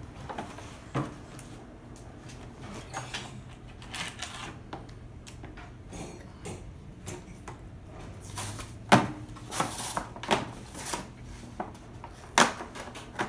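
A doll's plastic-and-cardboard toy box being worked open by hand: irregular clicks, crinkles and scrapes, with a few sharp loud snaps in the second half as the packaging gives way.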